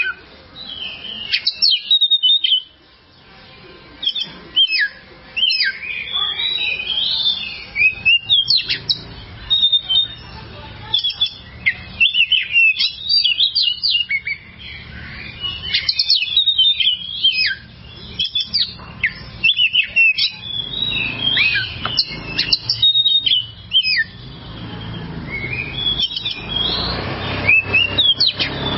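Oriental magpie-robin (kacer) singing: bursts of short, sharp whistled and chattering notes with quick falling strokes, broken by brief pauses. A rushing noise builds under the song near the end.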